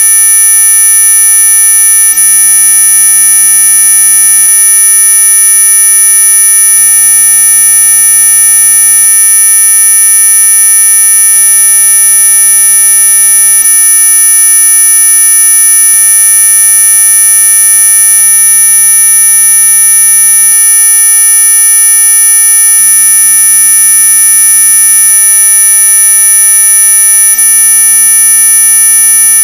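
Synthetic anti-mosquito repellent tone: a loud, unbroken electronic buzz of many steady pitches at once, the strongest of them very high and shrill, holding unchanged throughout.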